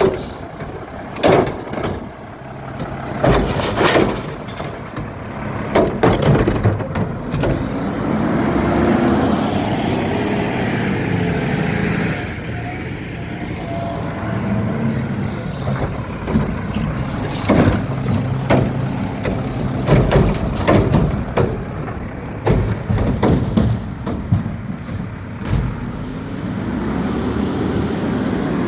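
Garbage truck working a recycling pickup: its diesel engine runs and revs up and down several times, with air hissing and many sharp clanks and bangs throughout.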